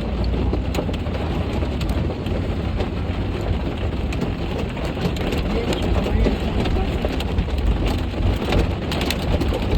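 Ice pellets falling hard and pelting a car, heard from inside: a dense patter of many small sharp clicks over a steady low rumble.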